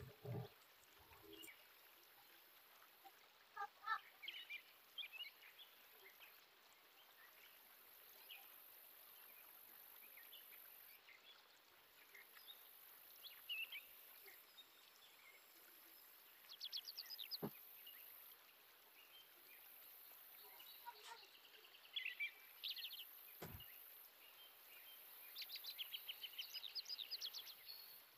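Faint background bird chirps and a couple of short rapid trills over quiet room tone, with two soft clicks.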